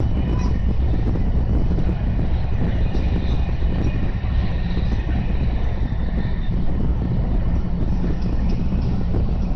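Tohoku Shinkansen train running at high speed, heard inside the passenger cabin as a steady low rumble and rush. A faint high whine wavers in and out around the middle.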